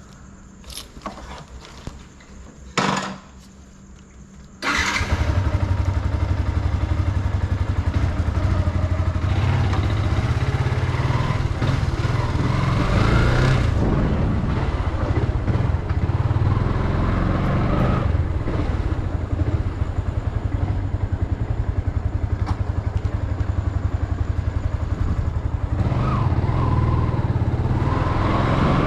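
A motorcycle engine cuts in abruptly about five seconds in, after a couple of knocks, and keeps running steadily with a few rises in pitch.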